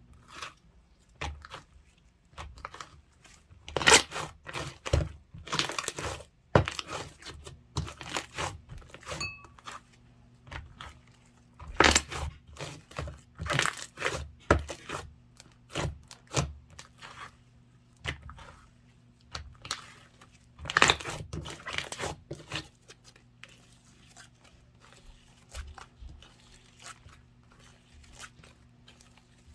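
Slime being squeezed, stretched and pressed by hand, making irregular crackling, tearing and popping sounds in clusters. It goes mostly quiet for the last few seconds.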